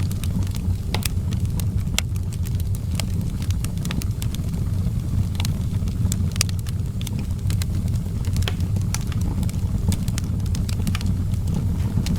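Wood fire crackling in an outdoor fireplace: frequent irregular sharp pops and snaps over a steady low rumble.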